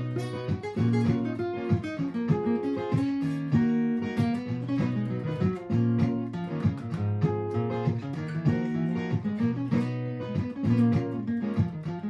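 Martin acoustic-electric guitar played through a looper pedal: a strummed chord loop repeats under improvised single-note lines.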